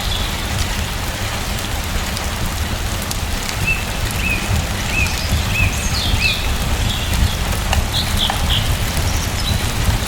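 Steady rain falling, with a small bird chirping over it: a run of about four short repeated chirps a third of the way in, then a few higher calls in the second half.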